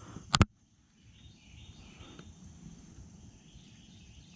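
A sharp double knock or splash about a third of a second in, then a faint outdoor background with a steady high insect-like drone.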